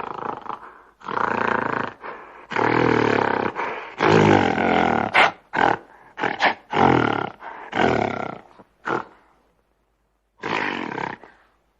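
A big cat roaring in a series of calls: several long, loud roars in the first half, then shorter grunting calls with pauses between them.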